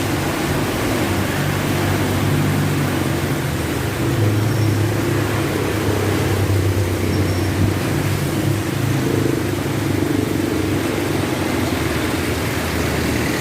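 Heavy rain falling as a steady hiss, with a motor vehicle's engine running underneath as a low hum.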